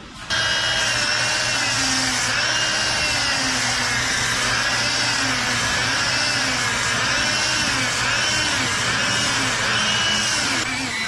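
Electric power tool motor starting abruptly and running for about ten seconds, its pitch wavering up and down again and again as the load changes, then stopping near the end.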